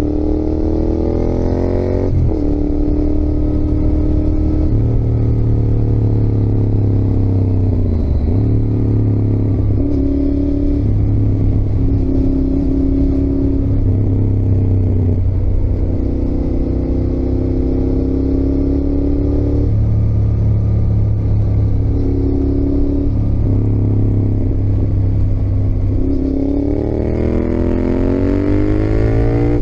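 Yamaha XSR700's CP2 parallel-twin engine under way, revs climbing and then dropping sharply at an upshift about two seconds in. The pitch then holds fairly steady with small throttle changes, before a long rise in revs near the end and another sharp drop at an upshift.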